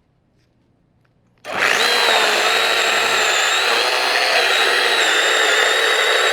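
Cordless electric chainsaw starts up suddenly about a second and a half in and runs steadily at full speed with a high electric whine, after near silence. It is being test-run after its chain was sharpened and adjusted.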